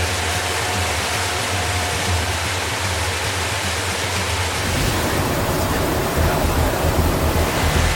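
Steady rushing roar of a C-17 Globemaster III's jet engines and airflow. About five seconds in it grows deeper and a little louder.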